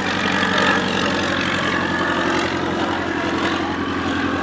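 1917 Curtiss JN-4 Jenny biplane flying overhead, its piston engine and propeller giving a steady drone.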